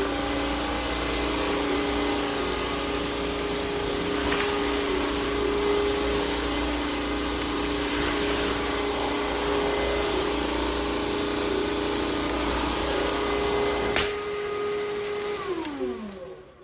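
Bissell CrossWave Cordless Max wet-dry vacuum-mop running with a steady motor whine and hum. A sharp click comes about fourteen seconds in, and near the end the motor winds down, its pitch falling as it stops.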